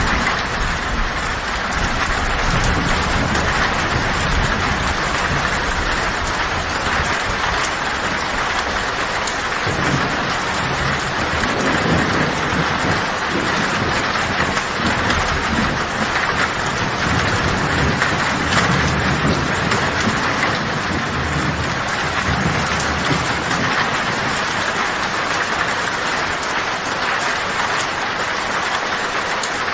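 Heavy rain falling steadily on a tin roof, with thunder rumbling low underneath that swells around the middle and fades toward the end.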